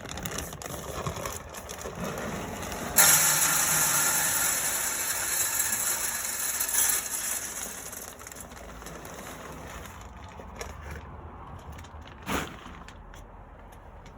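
Wood pellets poured from a bag into the metal hopper of a Camp Chef SG pellet smoker: a loud rush that starts suddenly about three seconds in and tapers off over several seconds. A single knock comes near the end.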